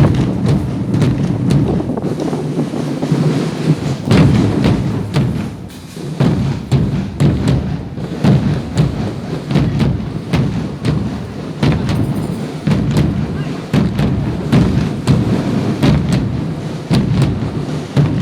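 Percussion-led music with many drum strikes at an uneven rhythm, continuing without a break.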